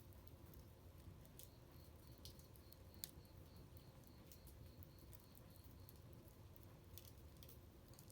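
Wood bonfire crackling faintly, with scattered sharp pops, the loudest about three seconds in. Behind it an insect chirps in a steady high pulse, about three a second.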